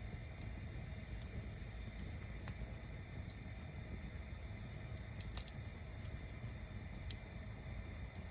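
Log bonfire burning: a steady low rumble of flames with a few sharp pops and crackles from the wood.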